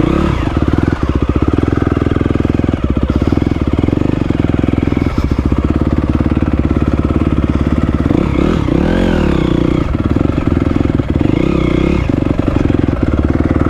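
Honda CRF250R single-cylinder four-stroke dirt bike engine running steadily near idle, with a brief rev up and back down about nine seconds in.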